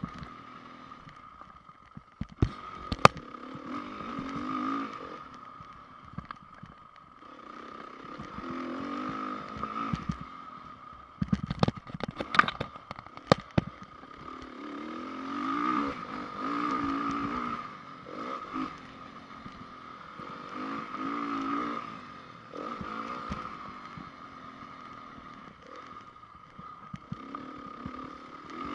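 2010 Honda CRF450R's single-cylinder four-stroke engine revving up and falling back again and again while riding a motocross track. There are sharp knocks and clatter about two to three seconds in, and a cluster of them around the middle.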